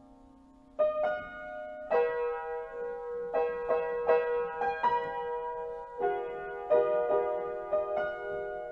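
Background piano music: a fading held note, then notes struck one after another from about a second in.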